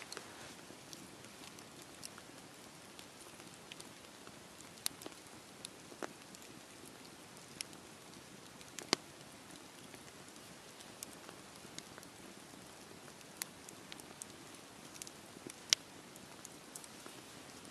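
Wood fire burning and crackling: a steady soft hiss with scattered sharp pops at irregular intervals, the loudest about nine seconds in and again near the end.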